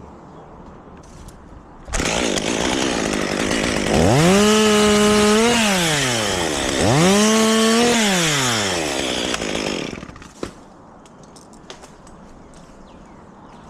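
Two-stroke chainsaw running, coming in suddenly about two seconds in. It is throttled up twice, each rev rising, holding briefly at full speed and falling back, and then it stops.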